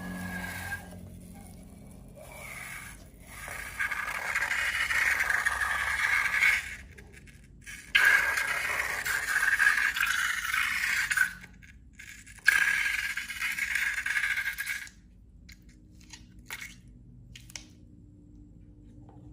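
Scraping sounds from slime-making, in three bursts of two to three seconds each, followed by a few light clicks near the end.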